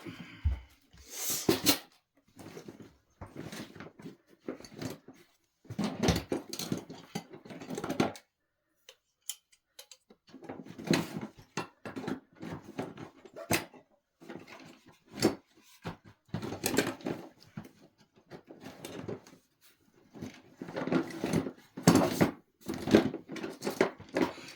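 Irregular knocks, clatter and scraping as wooden table parts and metal fittings are handled during assembly, with a pause of about two seconds a third of the way through.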